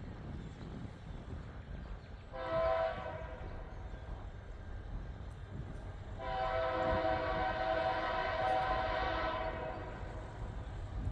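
Freight locomotive air horn sounding a short blast, then a long blast of about three seconds, over a low rumble.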